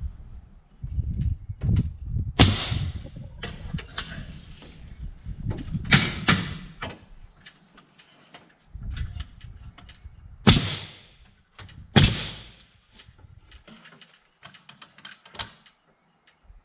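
Carpentry on wooden framing: four loud, sharp strikes with many smaller knocks and taps between them, over an on-and-off low rumble.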